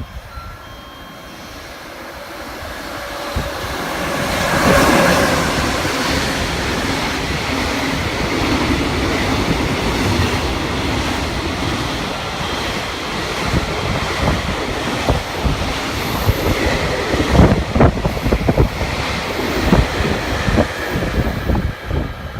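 A freight train hauled by an EF66 electric locomotive and a rapid passenger train passing each other. The running noise builds over the first few seconds and is loudest about five seconds in. It then settles into a long, steady rush of wheels on rail, with many wheel clacks over the rail joints in the second half.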